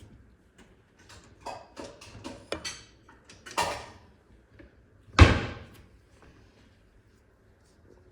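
Kitchen handling clatter: a run of light knocks and scrapes, then one loud clunk about five seconds in.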